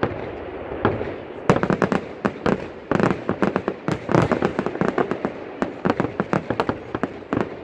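Fireworks display: sharp bangs of bursting shells, a few at first and then coming rapidly, several a second, from about a second and a half in.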